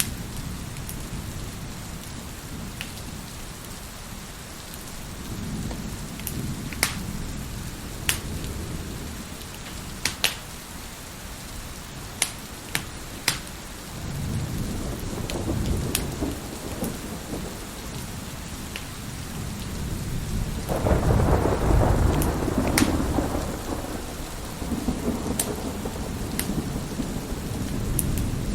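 Steady rain with thunder rolling in the distance, and a louder, longer thunder roll about two-thirds of the way through. A wood fire crackles over it with scattered sharp pops.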